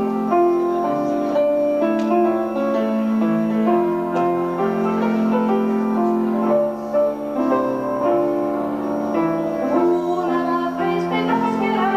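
Progressive rock band playing live in an amateur tape recording: a keyboard passage of sustained notes and chords that change every second or so.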